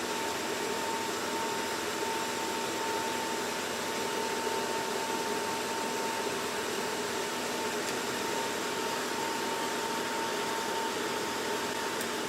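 Ballu BHC-3000SB electric air curtain running, its fan blowing a steady rush of air with a thin steady whine. The fan's shaft has been glued back into its rubber coupling and no longer slips or squeals.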